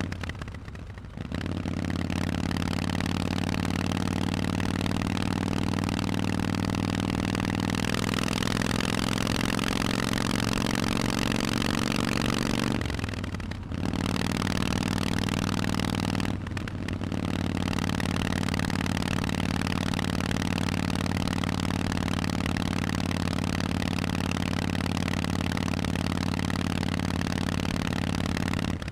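Harley-Davidson Forty-Eight's 1200cc V-twin running through Vance & Hines exhausts on the move. The engine note rises in pitch as it accelerates partway through, and it drops out briefly three times: once just after the start, once around the middle and once a few seconds later.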